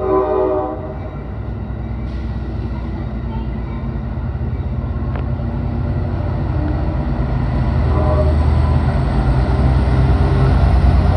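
A short train horn blast, then the low rumble of a passenger train moving along the platform, swelling steadily louder.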